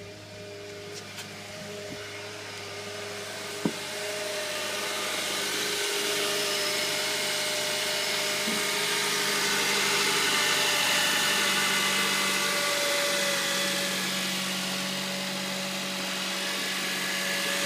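2009 Honda Accord's 2.4-litre i-VTEC four-cylinder engine idling steadily, a whirring hum that builds over the first several seconds and then holds. A single sharp click a few seconds in.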